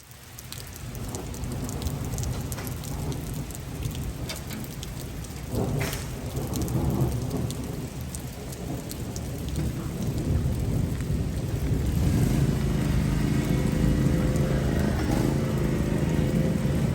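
Heavy rain pouring down in a thunderstorm, with thunder rumbling and sharp drop impacts. A steady low hum grows louder from about twelve seconds in.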